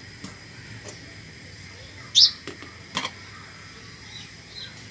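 A bird gives one sharp, short chirp about two seconds in, with a few fainter chirps near the end. A single metallic clink follows the loud chirp, with light taps, as dough is mixed by hand in a steel bowl.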